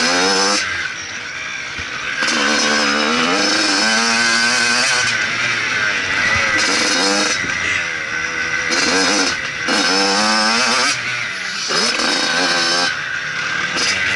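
Motocross bike engine revving hard and backing off again and again as the throttle is opened and closed, about six surges with rising pitch, each dropping away between them.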